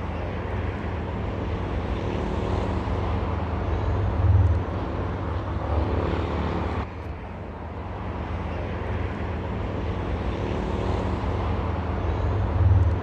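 Ocean surf washing on a beach: a steady rush with a heavy low rumble that swells twice, about four seconds in and again near the end.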